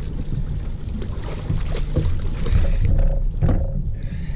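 Fishing rods and gear being handled and set in a boat's rod holder, with scattered knocks and clatter over a steady low rumble.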